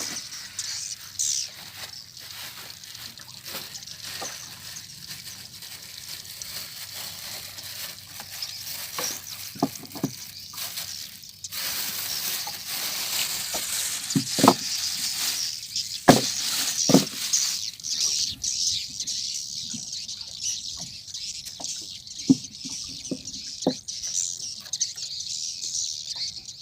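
A flock of swiftlets twittering in a continuous high-pitched chatter, with a few sharp knocks scattered through it.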